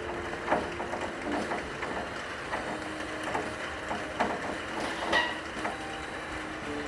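Steady rain, with many single drops striking over a constant hiss and one louder drip about five seconds in. A cello holds long, soft low notes underneath.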